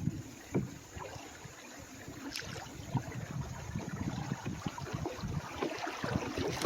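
Canoe being paddled through moving water: splashing strokes and a few sharp knocks, with the water noise building steadily louder as the canoe nears a small riffle.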